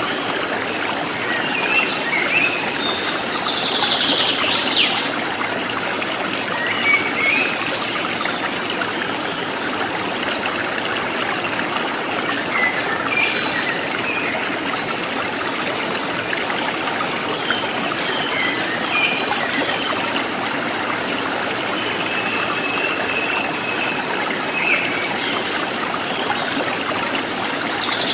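Water trickling and splashing steadily, with wild birds calling in short chirps every few seconds over it.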